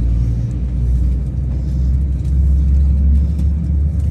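Steady low rumble and hum inside the cabin of an Airbus A321-200.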